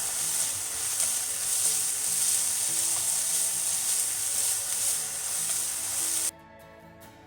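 Daikon leaves and peel stir-frying in a frying pan, a loud dense sizzle that cuts off suddenly about six seconds in, with soft background music underneath.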